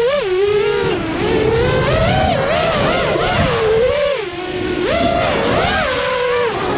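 7-inch FPV quadcopter's EMAX ECO II 2806 1500kv brushless motors and propellers whining in flight, the pitch rising and falling over and over with the throttle and dipping near the end.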